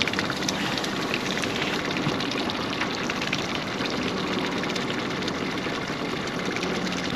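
Steady wash of water with a low motor hum from a fishing boat under way at trolling speed, with fine ticking spatters on top.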